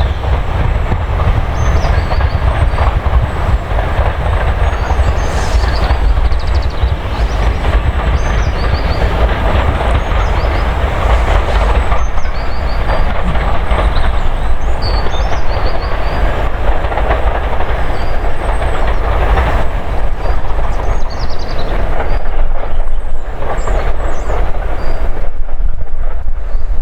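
Steam-hauled train running past on the rails, a steady rumble with the clickety-clack of wheels over rail joints.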